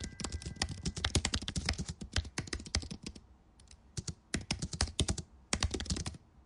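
Computer keyboard typing: rapid, irregular key clicks, pausing for about a second a little after the middle before resuming.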